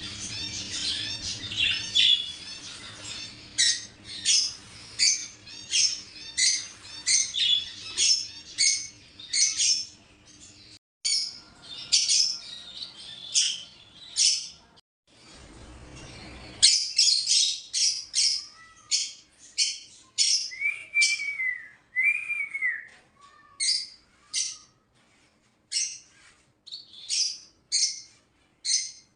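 Pet birds chirping: a run of short, shrill chirps, one or two a second, with a couple of brief rising-and-falling whistles about two-thirds of the way in.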